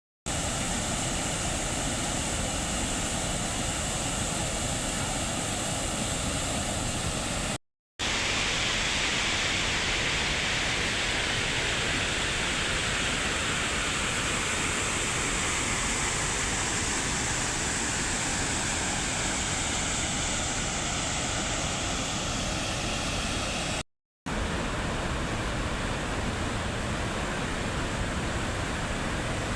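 Waterfall rushing: a steady, loud rush of falling water, cut off twice for a split second.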